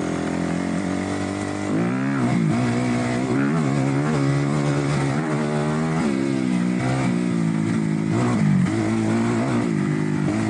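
Kawasaki KX250F four-stroke single-cylinder dirt bike engine running under way. Its pitch rises and falls again and again as the throttle is opened and shut.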